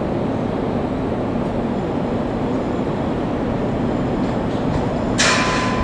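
Steady running noise from a stationary Seibu 9000 series electric train at the platform. About five seconds in, a sudden loud hiss-like burst cuts in with a steady high tone under it.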